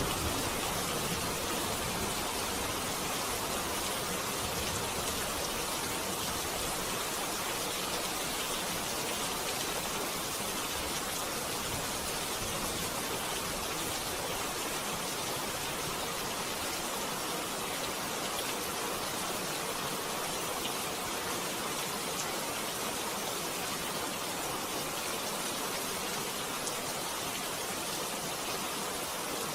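Steady, even rain falling, with the low rumble of thunder dying away in the first couple of seconds.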